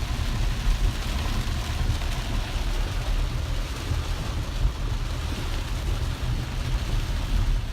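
Car driving through flooded streets, heard from inside the cabin: a steady low rumble of engine and road, with a continuous hiss of water from the tyres.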